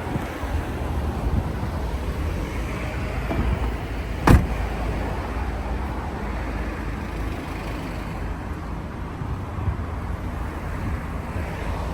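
Toyota MR2 driving, heard from inside the cabin: a steady low engine and road rumble. A single sharp knock comes about four seconds in.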